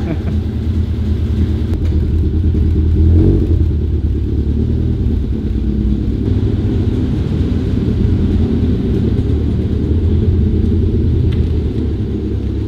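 Toyota AE86 Trueno's swapped 3S-GE BEAMS 2.0 four-cylinder with individual throttle bodies running at low revs, a steady low rumble as the car pulls slowly away.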